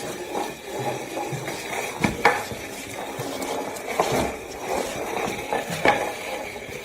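Scraping and rustling with a few sharp knocks or clinks, about four, the strongest a little over two seconds in.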